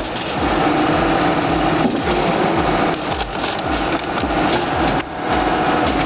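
Firewood processor running: its diesel engine and hydraulic chainsaw work steadily with a fast, regular pulsing.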